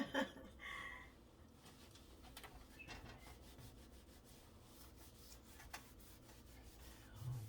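Faint rubbing and a few light clicks of dishes being handled at a kitchen sink.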